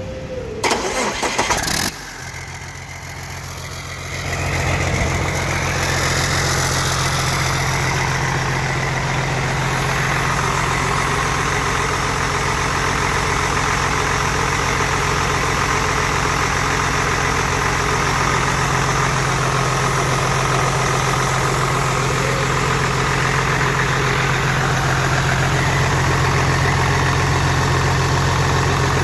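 John Deere 450LC excavator diesel engine: a brief loud rattle in the first two seconds, then about four seconds in the engine comes up to speed and runs steadily at normal operating temperature.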